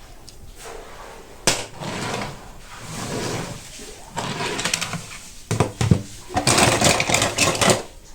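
Toy-car packaging being handled and torn open: a sharp snap about one and a half seconds in, then stretches of crackling and rustling, loudest near the end.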